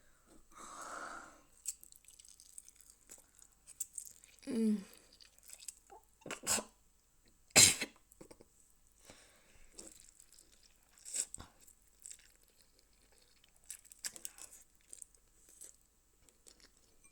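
Close-miked chewing and eating of noodles, with scattered short wet mouth sounds and a few sharp, louder smacks or clicks, the loudest about eight seconds in.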